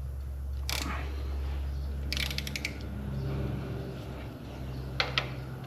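Hand ratchet clicking while a cylinder head bolt is tightened: a single click, then a quick run of clicks about two seconds in, and two more clicks near the end.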